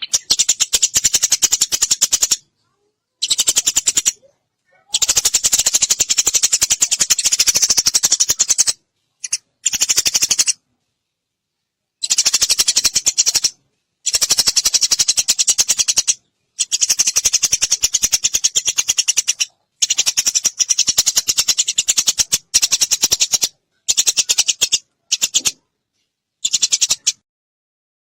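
Eurasian tree sparrow chattering: fast runs of shrill chirps in bursts of one to four seconds, separated by short, fully silent gaps.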